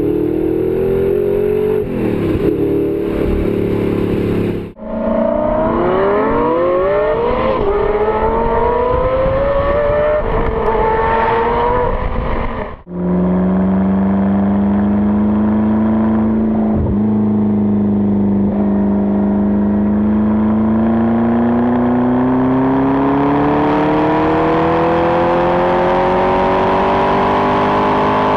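Car engines accelerating, in three edited clips that cut sharply about 5 and 13 seconds in. In the middle clip the engine note climbs in pitch again and again as it shifts up through the gears; in the last it holds steady, then rises slowly and drops back at the end.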